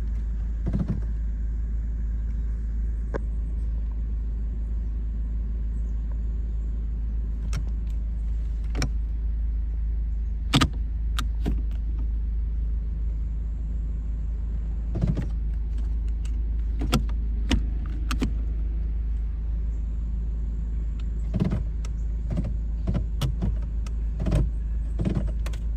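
A 2013 Ford Focus running at a steady idle with a low, even hum. Scattered sharp clicks and knocks come every few seconds, the sharpest about ten seconds in. The car will not move, which is the sign of its bad transmission.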